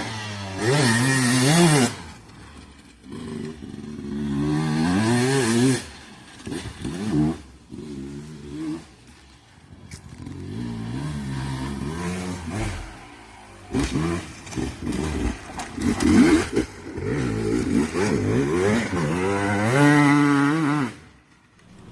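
Dirt bike engine revved hard in repeated bursts, its pitch climbing and falling with the throttle and dropping back between bursts, with some clattering and scraping.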